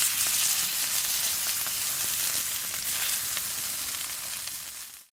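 Food sizzling over a charcoal or wood fire: a steady hiss with small scattered pops, fading out near the end.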